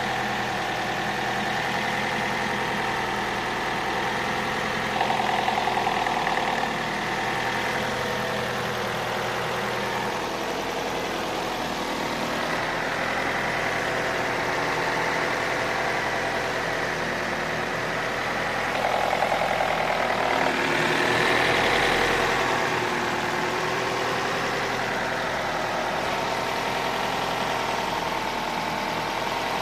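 Opel Astra H petrol engine idling steadily with a knocking noise in it, which the owner places toward the back of the engine near the engine control unit and says is not the gears, with no fault codes stored. The sound briefly grows louder twice.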